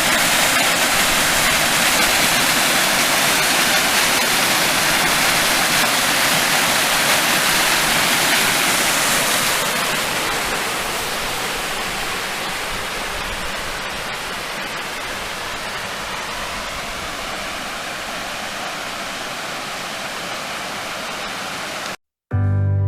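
Small waterfall pouring, a steady rush of falling water that gets somewhat quieter about ten seconds in. It cuts off abruptly near the end.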